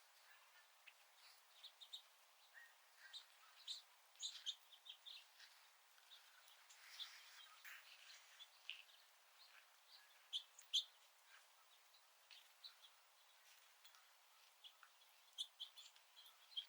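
Small birds chirping and calling faintly, many short irregular high chirps with a few louder ones now and then.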